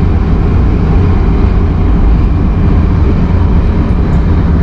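Shinkansen bullet train in motion: a loud, steady rumble and rush of running noise with a deep low drone.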